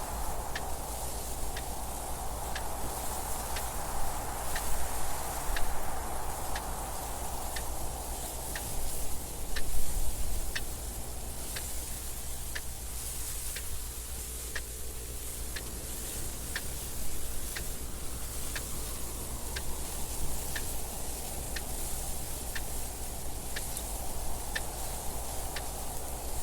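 Clock ticking steadily and evenly, over wind that swells and eases in slow gusts, with a steady low rumble underneath.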